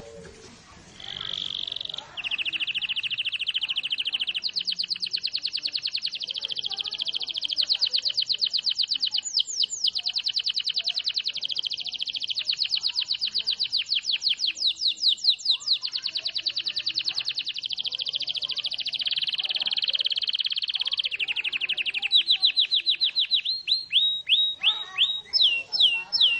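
Domestic canary singing a long, unbroken song of very rapid trills, running from one trilled phrase into the next. Near the end it switches to louder, slower notes that fall in pitch, repeated a few times a second.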